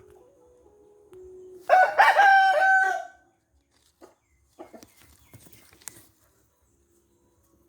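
A rooster crows once, loud and about a second and a half long, starting a little under two seconds in; a few faint knocks follow.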